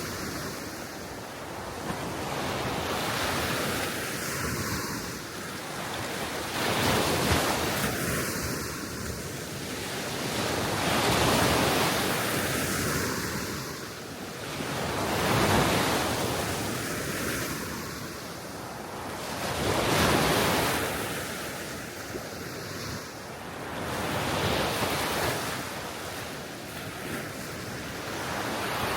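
Gentle Baltic Sea waves breaking on the shore, each wash of surf swelling and fading about every four seconds, with wind on the microphone.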